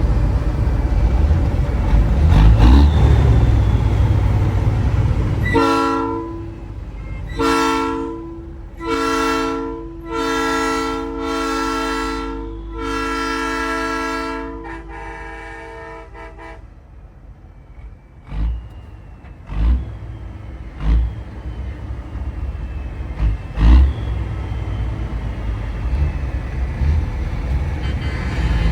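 Nathan Airchime P3 three-chime train horn on a big rig, sounding a three-note chord in about six blasts, the later ones held longer and the last fading out. Before the blasts the truck's engine and road noise run steadily, and a few sharp thumps follow after them.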